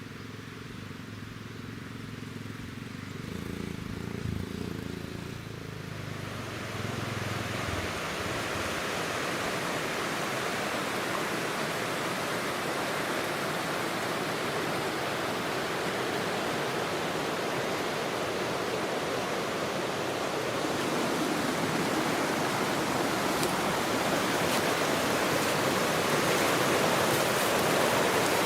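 Shallow river water rushing steadily over stones, growing gradually louder. A low rumble is heard under it during the first few seconds.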